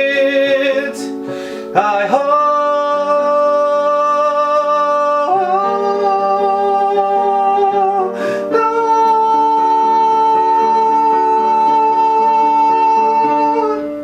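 A male singer holds long wordless sung notes over a plucked-string accompaniment, closing the song. Each note slides into pitch, the last is held about five seconds, and the music then fades out.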